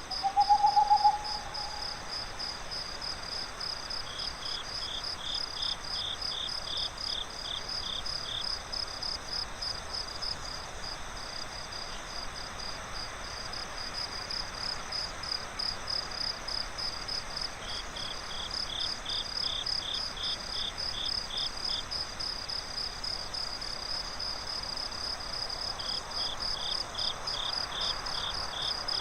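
Crickets chirping in a steady, rapid, high-pitched pulsing chorus, joined in bouts of a few seconds by a second, lower-pitched trill, over a faint breeze-like hiss. A short owl-like hoot sounds at the very start.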